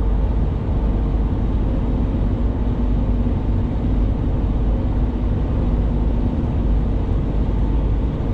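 Steady road and engine noise inside a moving vehicle's cabin: a deep, even rumble with a faint hum over it.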